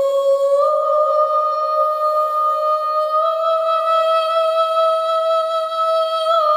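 A single long, held high note that steps up slightly in pitch about half a second in and again about three seconds in.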